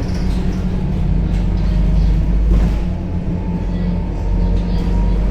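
Scania K270UB city bus heard from inside the cabin: the diesel engine runs steadily with a deep drone, over road rumble.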